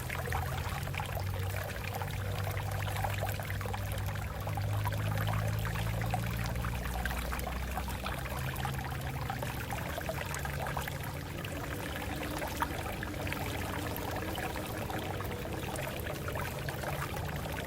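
Water flowing and splashing steadily over rocks, with a deeper rumbling band underneath. One sharp tick about twelve and a half seconds in.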